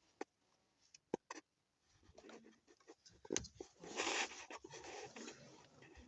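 Faint handling noise as a diagnostic lead's plug is fitted into the car's diagnostic socket: a few sharp clicks, then a few seconds of scraping and rustling, loudest about four seconds in.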